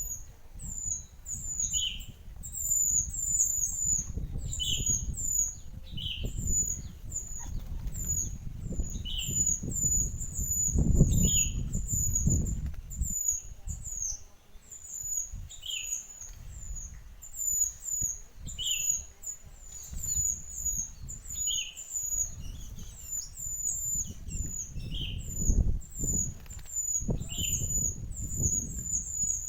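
Small songbird, the mantenan, chirping in quick short high notes, several a second, with a lower call note every two seconds or so. A low rumble runs underneath.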